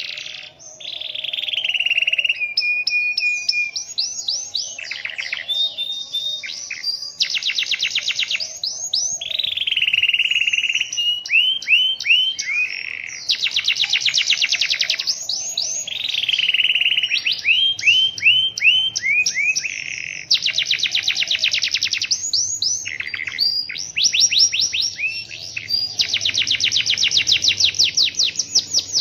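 Domestic canary singing continuously in long rolling trills, fast runs of repeated high notes with some held buzzy phrases between them.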